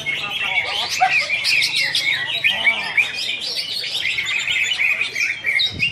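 Greater green leafbird (cucak hijau) singing a rapid, unbroken run of high chirps, short whistled slides and trills.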